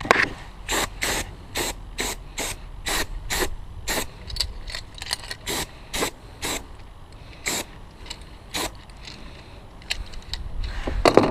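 Cleaner sprayed onto a scooter brake in short, separate hissing squirts, about seventeen of them at an uneven pace, thinning out toward the end.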